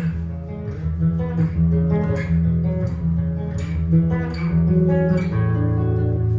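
Improvised jazz guitar: plucked single notes and chords ring over sustained low notes. From about five seconds in, a lower note is held and fewer new notes are struck.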